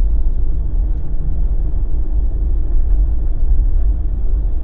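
Jeep driving on a winter road: steady low rumble of engine and tyre noise.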